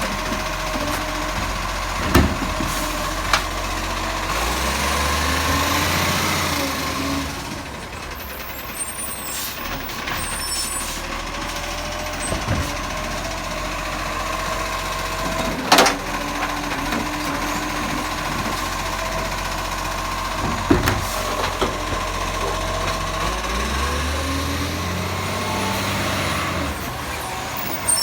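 Bucher-bodied recycling garbage truck running steadily, its engine rising in revs for a few seconds twice, with several sharp clunks and knocks. The loudest knock comes about halfway through.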